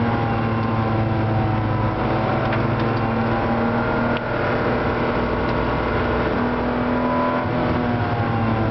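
Porsche 911 SC's air-cooled 3.0-litre flat-six engine running hard, heard from inside the cabin as the car laps the circuit. The engine note drifts down in pitch over the first few seconds, with a brief dip in loudness about four seconds in.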